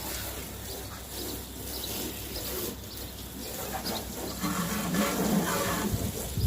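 Water running and splashing as a car is washed, growing louder about four and a half seconds in.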